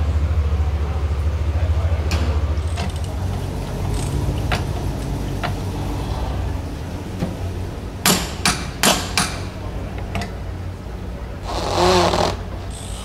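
Car engine idling with a steady low hum that fades away over the first few seconds. About eight to nine seconds in come a handful of sharp clicks, and near the end a short noisy burst.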